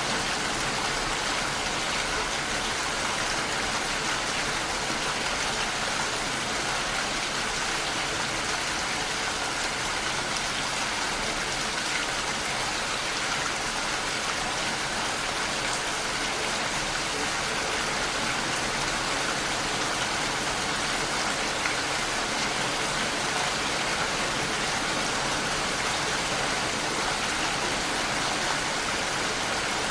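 Steady rain falling against a window pane: an even, unbroken hiss of fine drops.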